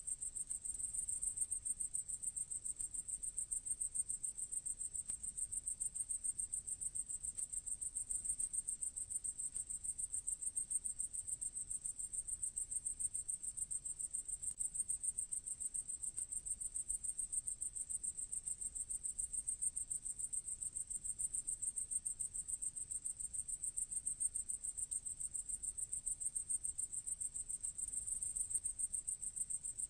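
A grasshopper stridulating: a steady, high-pitched, very rapid trill that carries on without a break.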